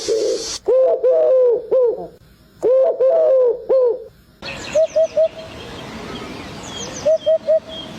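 Bird calls in back-to-back clips. First come short, low, pitched notes in groups of three or four. Then a different bird gives quick runs of three short notes, with faint higher chirps behind.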